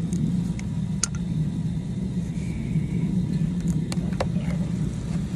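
Well jet pump motor running with a steady hum, with a few light clicks and taps over it. The pump is running after its pressure switch has cut in.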